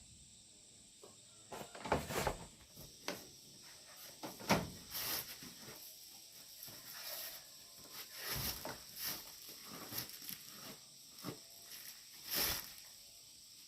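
A series of irregular knocks and clatters, as of objects being handled, the loudest about four and a half seconds in and again near the end.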